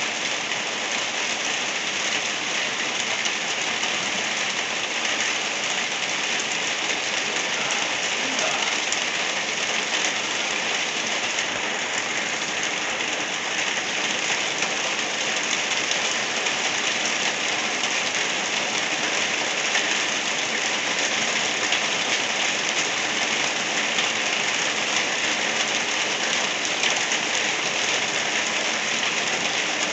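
Gentle rain falling steadily, an even hiss that does not let up.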